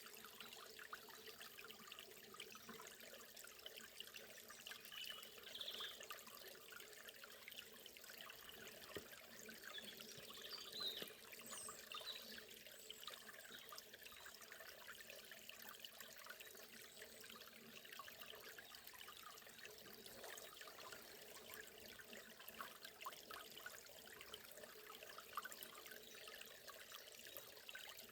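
Faint, steady rush and trickle of a forest river, with a few brief bird chirps in the first half.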